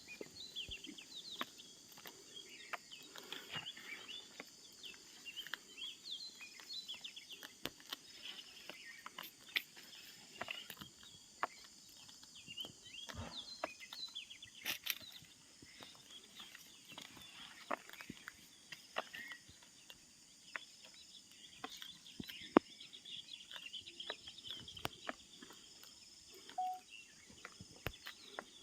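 Birds chirping and twittering in quick, scattered short calls, mixed with frequent sharp little clicks, over a faint steady high hiss.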